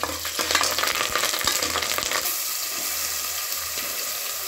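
Curry leaves, sliced onion and whole spices sizzling in hot oil in an aluminium pressure cooker, stirred with a metal ladle. Crackling and spitting for about the first two seconds, then it settles into a steady sizzle.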